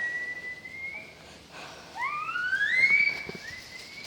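A person whistling to call dogs back: two long rising whistles, the second starting about two seconds in, louder and sweeping higher.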